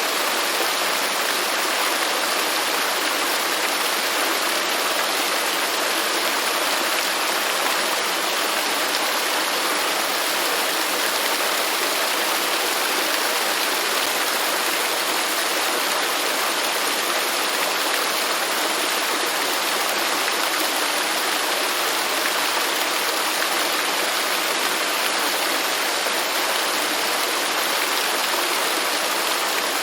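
Waterfall: a steady rush of falling water, even and unbroken, with no other sounds.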